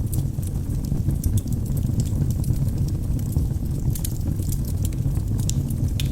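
Wood fire burning in a fireplace: a steady low rumble of the flames with many small sharp crackles and pops from the burning logs, several a second.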